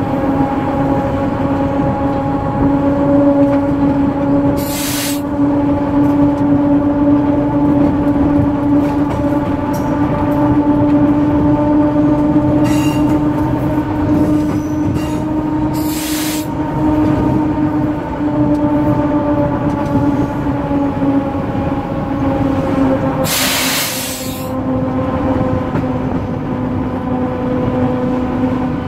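Diesel train running steadily along the track with a continuous engine drone, broken by three short hisses about 5, 16 and 24 seconds in.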